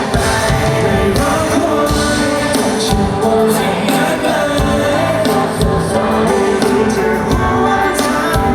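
Live pop band music with singing, a steady drum beat under it.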